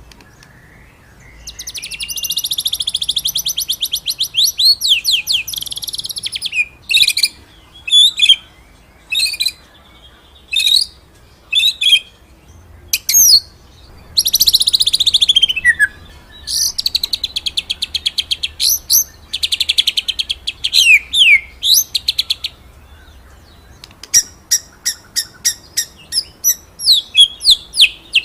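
White-rumped shama (murai batu) singing a rolling song: long rapid trills broken by short, sharp whistled notes, ending in a fast run of repeated notes.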